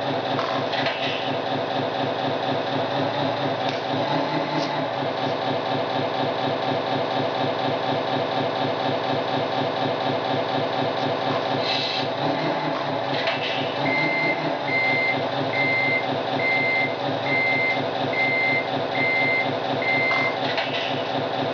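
Simulated truck diesel engine running steadily from the sound unit of a Tamiya Scania RC model truck. In the second half a reversing warning beeps eight times, a little under a second apart, signalling that the truck is in reverse.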